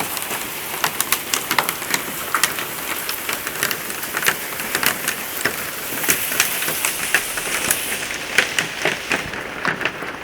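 Hailstorm: hailstones striking hard surfaces as many irregular sharp knocks over the steady hiss of heavy rain. The rain hiss eases near the end.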